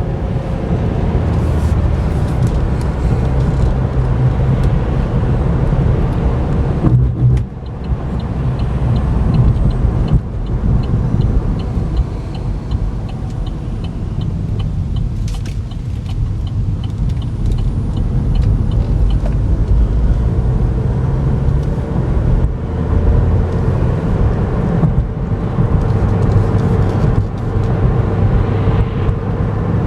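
Steady road and tyre rumble inside the cabin of a 2011 Chevy Volt cruising at highway speed, with its gasoline range-extender engine running because the battery is dead. A faint, evenly spaced ticking runs through the middle stretch.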